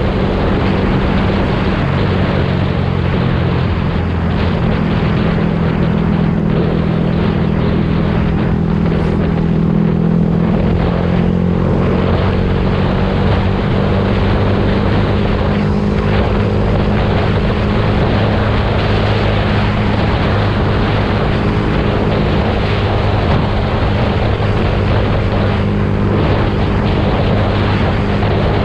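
Yamaha YZF-R125's single-cylinder four-stroke engine running through its exhaust at steady revs, the pitch shifting slightly near the middle and then holding.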